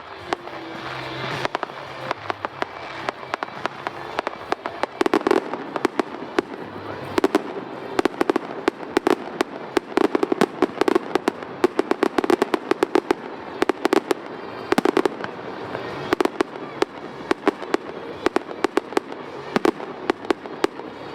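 Fireworks going off: a dense, irregular string of sharp cracks and pops from bursting shells, thickest in the middle of the stretch at several reports a second.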